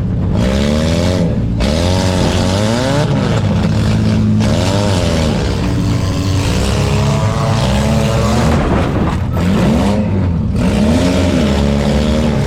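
Several four-cylinder demolition derby car engines revving up and down over and over, overlapping, over a steady low engine drone.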